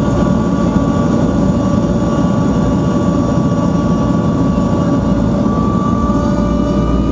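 NAMC YS-11's twin Rolls-Royce Dart turboprop engines running, a loud steady drone with a high whine over a deep rumble. The deep rumble grows stronger about six seconds in.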